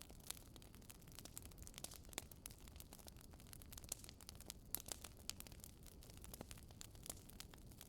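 Faint crackling of a burning wood fire, a Swedish fire log: irregular sharp pops and snaps, several a second, over a low, steady rumble.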